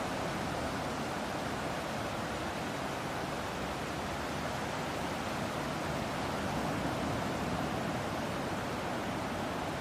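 Ocean surf rushing as a continuous, even hiss, with no separate wave crashes standing out.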